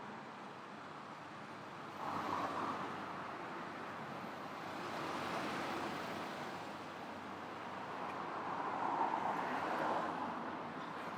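City street traffic: cars passing one after another, their tyre and engine noise swelling and fading, loudest near the end.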